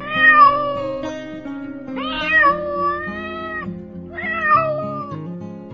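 Domestic cat meowing three times, long drawn-out calls, the second the longest, over background music.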